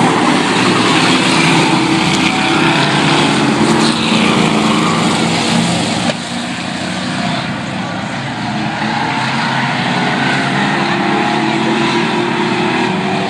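Vehicle engines running loudly and continuously, easing off somewhat about six seconds in.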